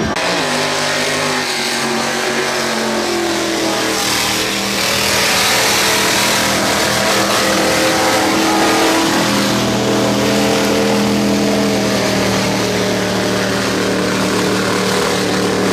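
Off-road vehicle's engine running hard under load, held at high revs with small dips and shifts in pitch, over a steady rushing hiss.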